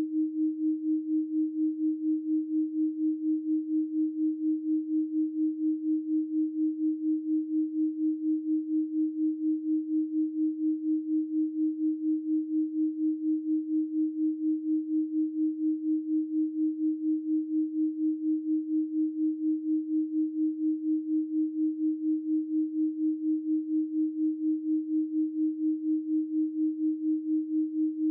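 A steady 312 Hz pure sine tone, a single low hum with no overtones, pulsing evenly in loudness several times a second.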